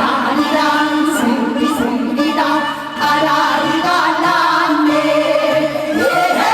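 A woman singing a song with vibrato over instrumental accompaniment, heard through a live sound system.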